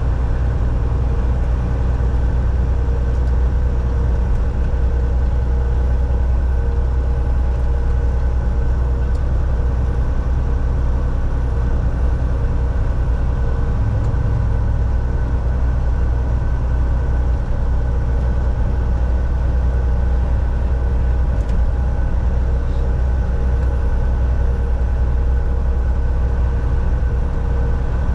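Volvo VNL 760 semi truck heard from inside the cab while driving: a steady low engine drone with road noise and a few faint steady whining tones.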